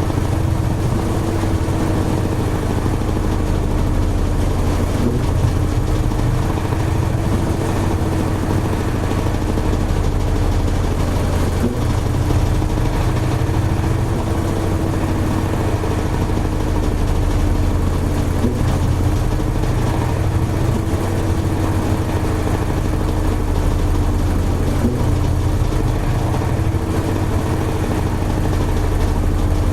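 Toshiba AW-42SEE4 top-loading fully automatic washing machine running steadily through its spin cycle: a continuous motor and drum hum with a slightly wavering tone and no pauses.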